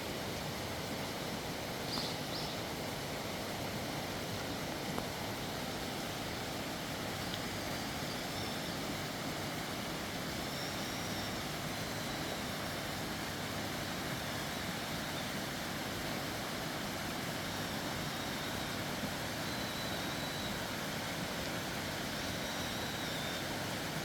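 Steady outdoor rushing noise, with faint high-pitched bird chirps every few seconds.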